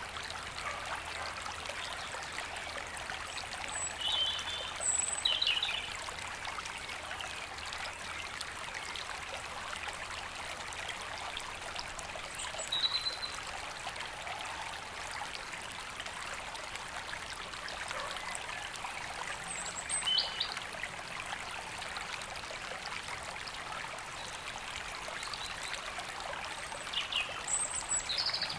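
A river running steadily over stones, with short bird chirps from the trees above it about four to five seconds in, around thirteen and twenty seconds, and again near the end.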